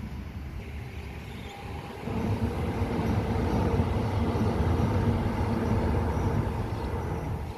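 Adelaide 3100 class railcars, hybrid-converted, running past with a steady low rumble and a faint steady tone. It grows louder about two seconds in and eases off near the end.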